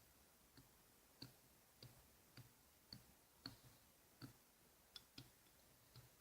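Faint, light clicks or taps, about a dozen, roughly one every half second, each a small tick with a dull knock beneath it.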